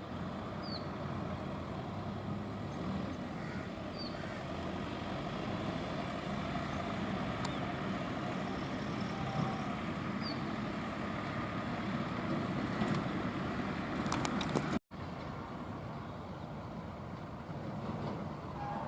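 Steady low rumbling background noise, like distant vehicles, with three faint short high chirps from a small bird scattered through it. The sound cuts out for an instant about 15 seconds in.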